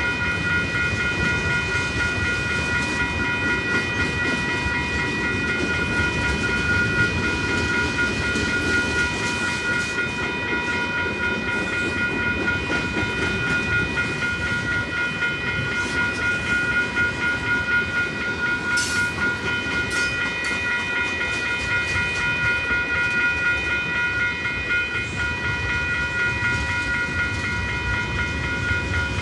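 A train rolling past steadily: a continuous rumble of wheels on the track, with several steady high-pitched tones held throughout.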